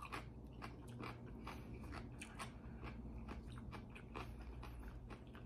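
Faint close-miked chewing of a mouthful of raw fish sashimi: soft, irregular wet clicks and smacks of the mouth working the bite.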